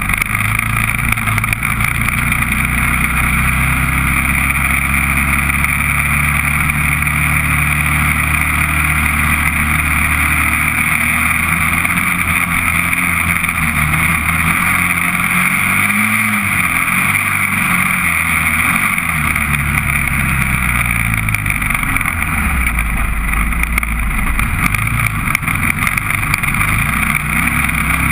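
Honda TRX400EX quad's single-cylinder four-stroke engine running under way, steady at first, then its pitch rising and falling several times as it revs up and eases off, over steady wind and road hiss.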